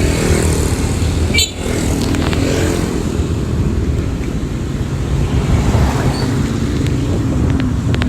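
A motor vehicle running on the road: a steady low engine rumble with traffic noise and small shifts in engine pitch, broken by a brief dip about a second and a half in.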